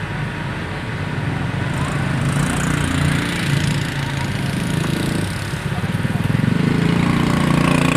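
Truck engine running under load, growing louder and heavier about six seconds in as it pulls harder.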